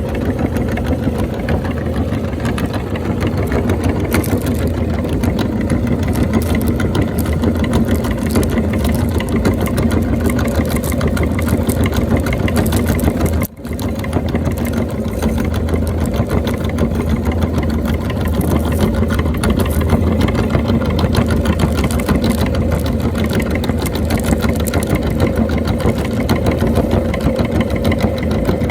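Electric meat grinder running steadily with a dense crackle as snacks are fed through and crushed. The sound cuts out for a split second about halfway through.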